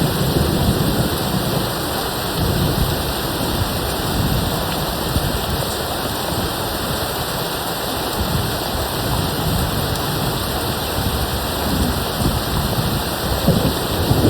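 Steady rain hissing, with distant thunder rumbling low underneath; the rumble eases off in the middle and swells again near the end.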